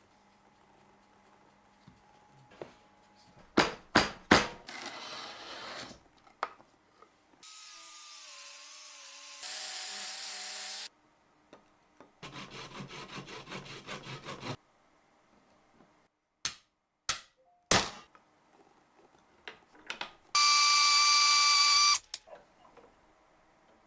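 A run of separate tool sounds: sharp clicks and knocks, a few seconds of whirring with a wavering tone, a rapid rattle, more sharp clicks, then a loud, steady, high whine lasting about a second and a half near the end.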